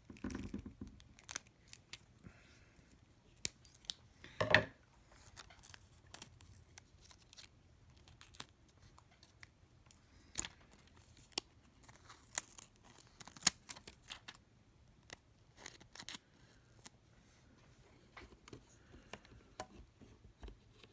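Small, sharp clicks, taps and snips from handling tools and battery adhesive strips at an opened iPhone, scattered unevenly, with one louder knock about four and a half seconds in.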